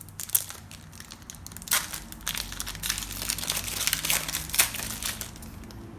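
Plastic wrappers of Prizm baseball card packs crinkling and crackling as the packs are torn open and handled, with irregular sharp crackles.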